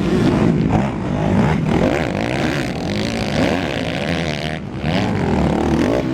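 Several 250 cc racing motorcycles at once, their engines revving up and down as they ride the track, the pitches overlapping and changing constantly.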